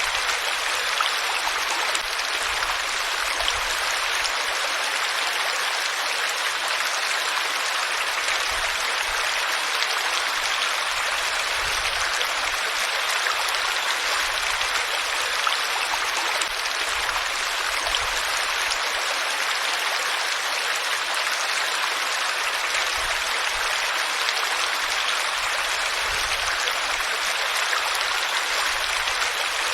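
Water flowing steadily, an even rushing sound like a stream or small cascade with no change across the stretch.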